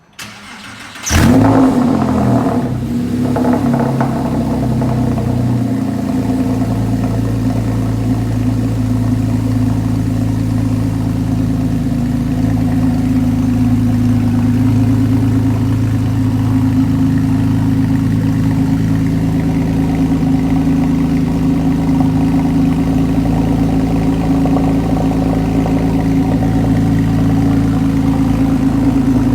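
Cold start of a Porsche 997.1 Carrera S's 3.8-litre flat-six through Soul Performance muffler bypass pipes: the starter cranks briefly, the engine catches about a second in with a loud flare, then settles into a steady, loud idle.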